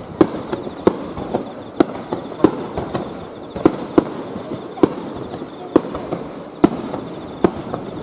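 Fireworks bursting in an irregular run of about a dozen sharp bangs, with insects chirping steadily in the background.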